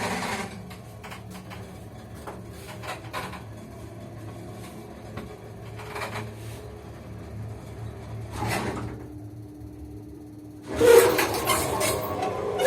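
1968 Karacharovo (KMZ) passenger lift running: a steady low hum with scattered clicks and short creaks from the car's balancer, then a loud clatter near the end.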